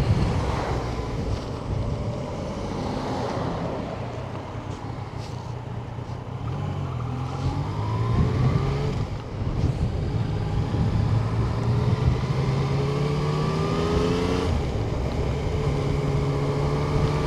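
Yamaha Tracer 900's inline three-cylinder engine under way, its pitch climbing twice as it accelerates, each climb ending in a sudden drop at a gear change, then holding steady near the end.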